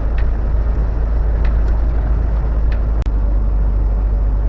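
Steady low drone of a semi-truck's engine and road noise heard inside the cab while driving at highway speed, with a few faint clicks.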